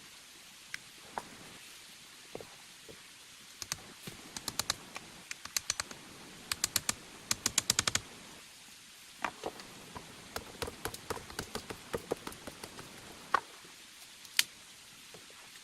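A series of light, sharp taps and clicks, coming in quick runs of several a second, with a couple of louder knocks near the end.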